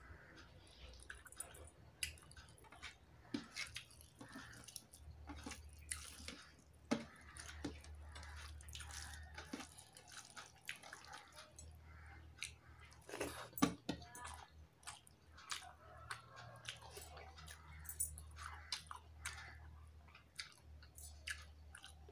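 Close-up chewing and wet mouth clicks of a person eating rice and hilsa fish by hand, with a cluster of louder clicks about halfway through. A low steady hum runs underneath.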